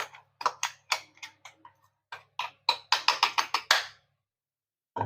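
A utensil knocking and clicking against a vessel in quick irregular clusters, with a pause about two seconds in, as grated coconut and sugar are mixed into steamed ragi puttu.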